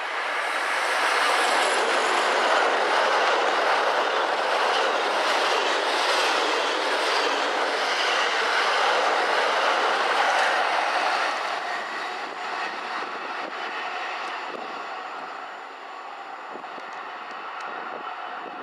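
Class 56 diesel locomotive hauling a barrier wagon train of container flats past close by, the wheels clattering on the rails. The noise swells as the locomotive arrives, stays loud while the wagons roll past, and fades in the second half as the train pulls away.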